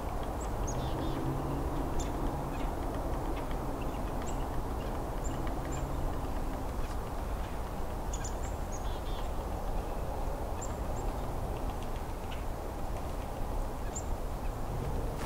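Small birds giving short, high-pitched call notes, scattered singly and in quick pairs, some dropping in pitch, over a steady low background rumble; a faint low hum runs under the first few seconds.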